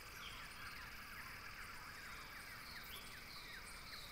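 Faint outdoor ambience with small birds calling: a run of short falling chirps, several a second, with a few higher notes above them over a low steady hiss.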